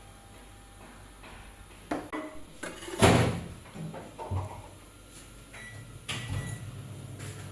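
A series of sharp knocks and clatters, the loudest about three seconds in, like things being handled and set down in a room.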